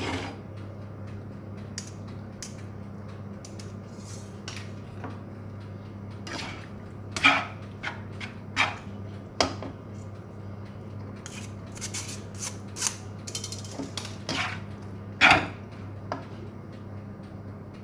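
A utensil scraping and knocking against a mixing bowl as cooked macaroni and minced meat are stirred together: irregular short strokes, with two louder knocks about seven seconds in and again about fifteen seconds in. A steady low hum runs underneath.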